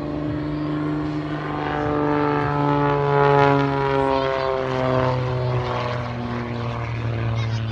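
Propeller airplane flying past, its engine drone falling steadily in pitch as it goes by, loudest about three seconds in.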